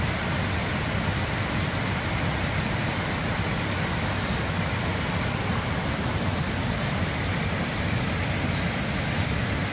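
Water of a waterfall rushing steadily over rocks, an even, unbroken rush.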